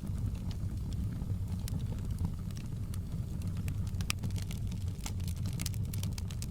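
Fire crackling in a fireplace: scattered sharp pops and snaps, some in quick clusters, over a steady low rumble.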